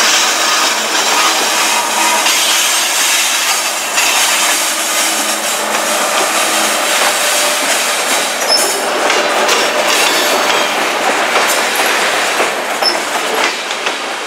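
Loaded grain train's freight cars rolling past, their steel wheels clattering and clicking over the rail joints. The clicking grows denser in the second half.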